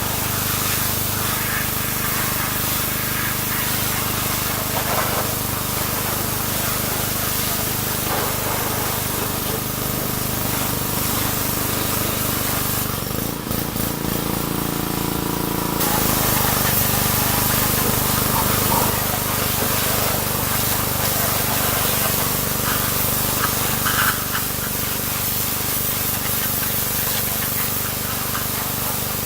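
Pressure washer spraying steadily over a motor's hum, briefly interrupted about halfway through.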